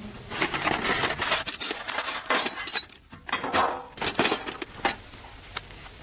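Metal parts and tools clinking and clattering as they are handled, with a short ringing tone on some of the knocks; the clatter stops about five seconds in.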